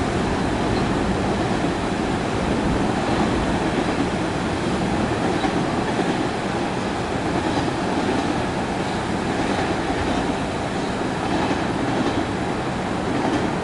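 A train running past on the tracks: a loud, steady running noise with faint clicks recurring every second or two.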